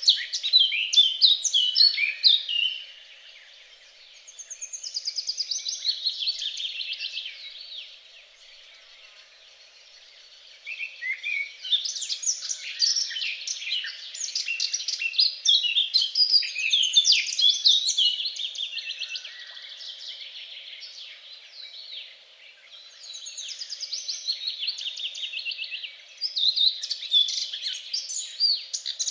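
Songbirds singing: varied, fast warbling phrases broken by quick trills of repeated notes, with a brief lull about a third of the way in.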